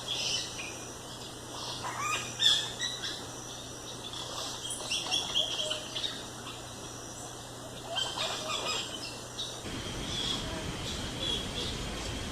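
Several wild birds calling with short chirps and whistles over a steady forest background, one sharp call standing out early on. About three-quarters of the way through, the background shifts to a louder low rumble of noise.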